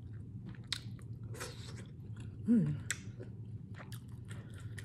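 Close-up chewing of rotisserie chicken in sauce: wet mouth clicks and smacks scattered throughout. A short hummed vocal sound about two and a half seconds in is the loudest moment.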